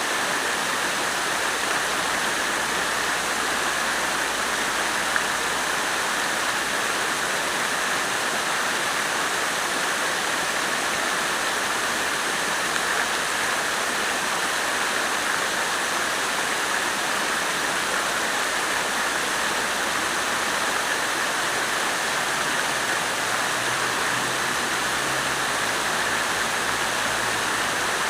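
Water from a fountain falling and splashing in a steady, unbroken rush.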